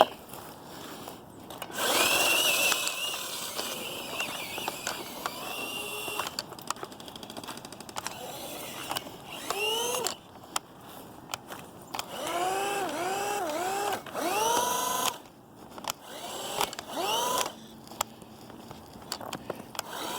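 Hosim S911 RC truck's electric motor whining up and down in a series of short throttle bursts, its wheels spinning while the truck is stuck in snow.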